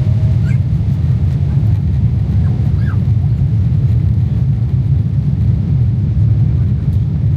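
Cabin noise inside a Boeing 777-300ER climbing after take-off: a steady low rumble from its GE90 engines and the airflow.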